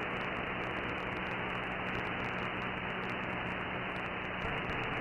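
Radio receiver static: an even hiss on an open sideband channel of the 11-metre band, with no station coming through. A faint wavering whistle starts near the end.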